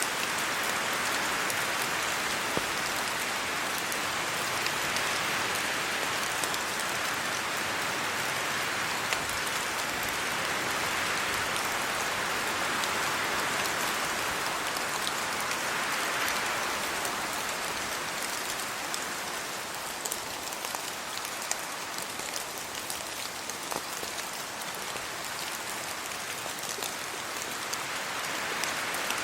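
Steady rain: a constant hiss dotted with many fine drop ticks. It eases a little past the middle and builds again near the end.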